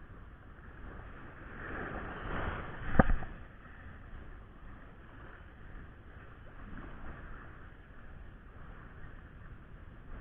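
Steady rushing of surf and wind on the beach, swelling for about a second, then a single sharp knock about three seconds in.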